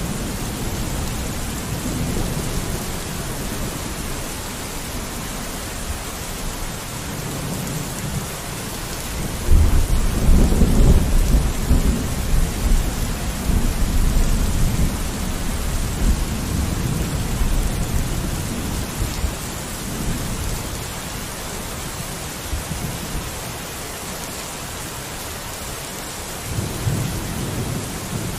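Steady rain falling on a window, with a long roll of thunder that breaks in about a third of the way through and rumbles on, slowly fading, for over ten seconds; another rumble of thunder starts right at the end.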